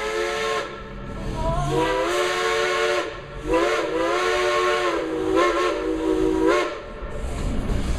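Steam locomotive whistle blowing in a series of blasts: one blast ends just after the start, then three more follow, each sliding up in pitch as it opens, the last one short, with steam hiss and train noise underneath.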